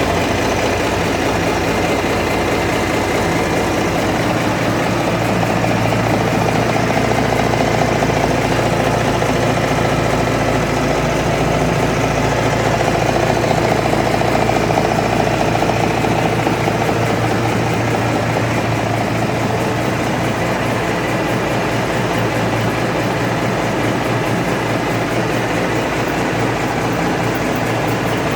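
Cummins NTA855 turbocharged inline-six diesel engine running steadily while being run in after a rebuild.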